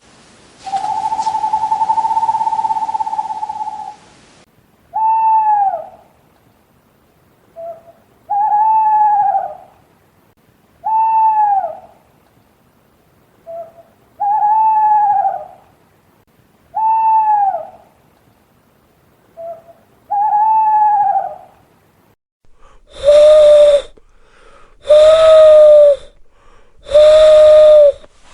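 Owl calls. A long steady whistled note is followed by a series of hoots about two seconds apart, each rising and falling in pitch, with short soft notes between them. About 23 seconds in, a different, breathy whistling call takes over, repeated every two seconds.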